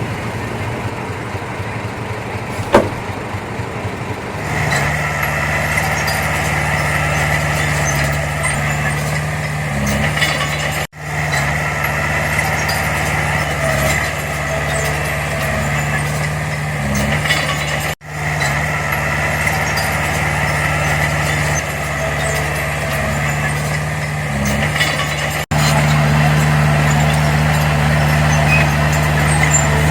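Diesel engine of heavy earthmoving machinery running steadily under load, with a steady low hum and a high whine over it. It gets louder about four seconds in and again near the end, and breaks off for an instant three times.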